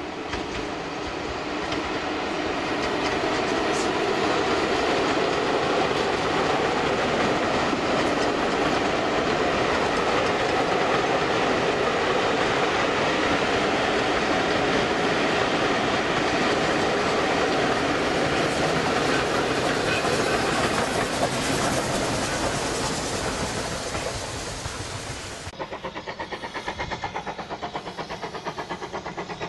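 Train passing close by: a Class 25 diesel locomotive leading coaches, with a BR Standard 9F steam locomotive on the rear, wheels clattering over the rail joints. The sound builds over the first few seconds, holds steady, then fades. About 25 seconds in it gives way to a quieter, regular pulsing as the 9F steam locomotive approaches in the distance.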